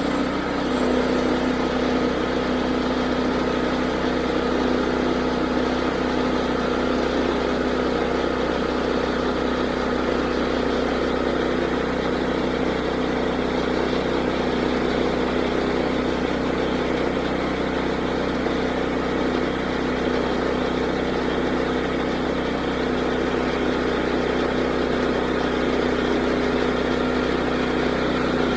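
Woodland Mills HM122 band sawmill's 9.5 hp engine running steadily, driving the band blade.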